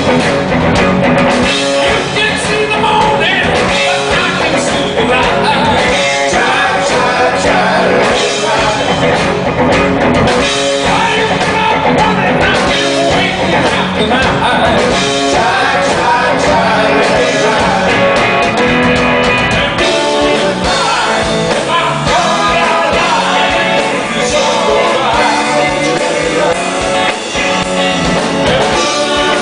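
Live rock band playing a song: electric guitar, drum kit and sung vocals, loud and continuous.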